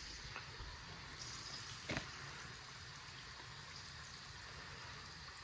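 Faint steady bubbling of cooking on the stove, with battered crappie frying in oil and a pot of noodles on the boil, and one short knock about two seconds in.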